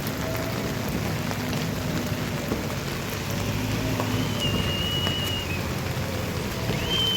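Steady rushing of water, heavy rain or flood water, with a faint high whistle-like tone about four seconds in and again near the end.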